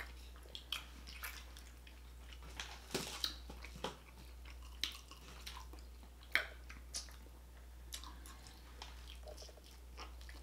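Close-miked chewing of fried Italian sausage in buns and fried onion rings: irregular wet mouth clicks and smacks. A steady low hum runs underneath.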